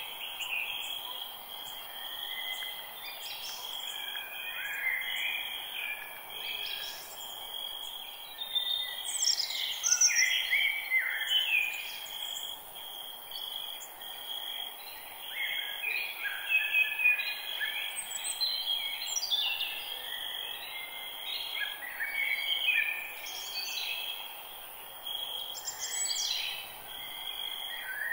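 Forest bird chorus: several birds chirping and trilling in overlapping phrases, over a steady high insect trill and a soft background hiss.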